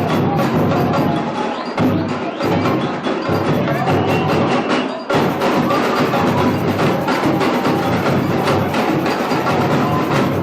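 Samba bateria playing loud, dense percussion: drums with high, clicking hand percussion over a steady driving rhythm, with a brief dip about five seconds in.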